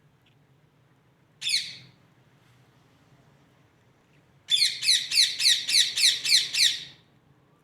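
Indian ringneck parrot calling: one short squawk, then a rapid run of about ten repeated squawks with falling pitch, roughly four a second.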